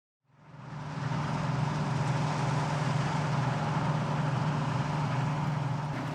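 Claas Dominator 68 combine harvester at work: its diesel engine and threshing machinery make a steady drone with a low hum, fading in during the first second.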